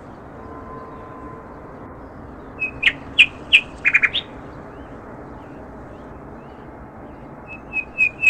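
Small birds chirping: a quick run of short calls about three seconds in and another rapid series near the end, over a faint steady background hiss.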